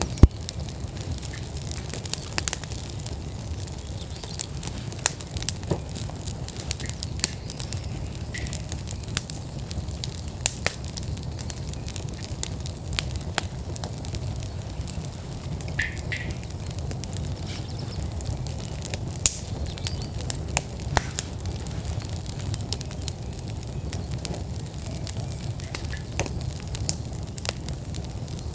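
Wood fire burning in an outdoor fire pit: frequent sharp crackles and pops over a steady low rumble.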